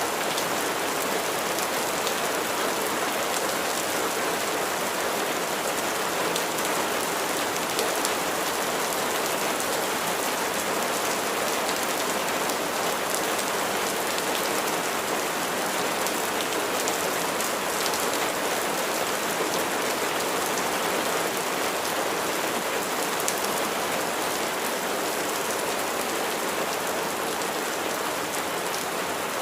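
Steady rain falling, with many fine drop patters over an even hiss and no change in strength.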